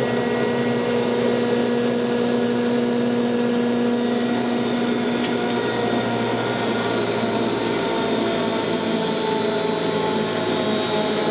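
Buss 4L planer's four-knife cutterhead and motor running with a steady hum and whir. About five seconds in there is a faint click and the hum changes, some of its tones slowly falling, as the machine is switched off and the heavy head begins to coast down.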